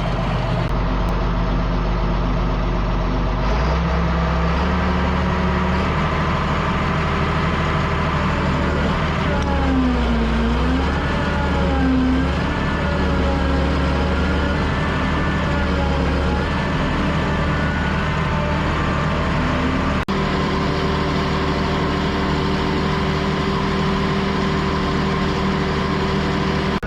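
Heavy diesel engine running steadily, its pitch stepping up about three and a half seconds in and wavering up and down through the middle, with a single sharp click about twenty seconds in.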